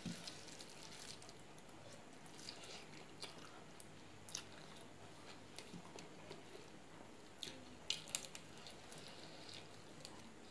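A person chewing a mouthful of rice and side dishes, with scattered soft wet mouth clicks and a brief louder cluster of clicks about eight seconds in.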